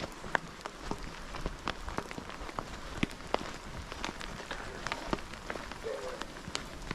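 Rain falling on nearby surfaces: a steady hiss broken by many irregular sharp ticks of drops striking close to the microphone.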